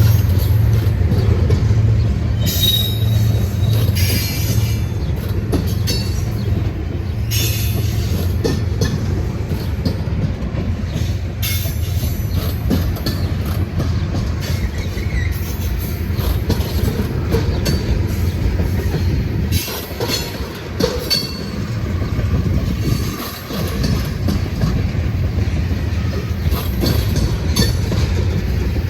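Freight train cars rolling past with a steady low rumble, punctuated throughout by short high-pitched wheel squeals and clicks over the rail.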